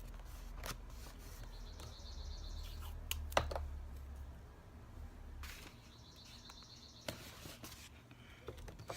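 Faint handling of paper collage pieces at a craft table: brief rustling and rubbing of paper, with one sharp tap about three and a half seconds in, over a low steady hum.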